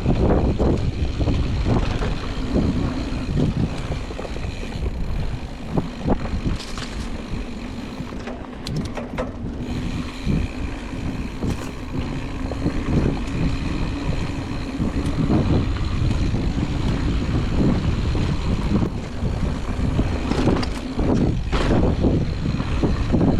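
Mountain bike rolling fast over a dirt trail: tyre rumble, wind buffeting the camera microphone, and scattered knocks and rattles of the bike over bumps.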